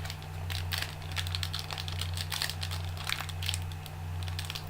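Trading cards being handled and flipped through: irregular soft clicks and rustles of card stock sliding against card, over a steady low hum.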